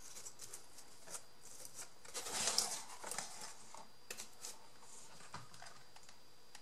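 Paper craft pieces being handled and fitted by hand: scattered light clicks and taps, with a louder rustle of paper about two and a half seconds in.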